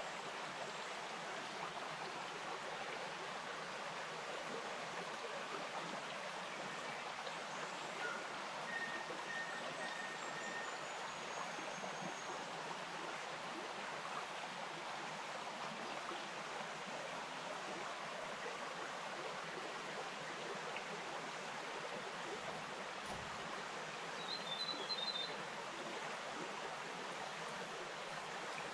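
Wainuitewhara stream flowing steadily over stones in native bush, with a few faint bird calls, one near the end.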